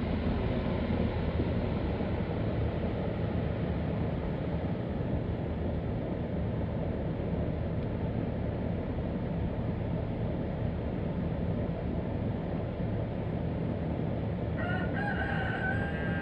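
A rooster crowing once near the end: one drawn-out call lasting about two seconds that drops in pitch as it finishes, over a steady outdoor background noise.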